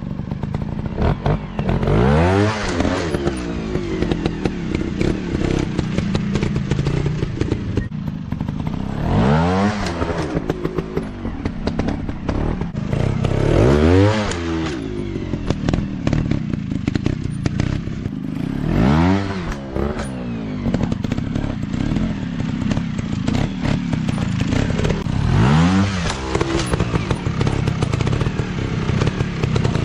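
Motocross dirt bike engines revving hard, the pitch climbing and dropping in five surges spaced about five seconds apart, between stretches of lower running. Clattering and scraping sounds mix in throughout.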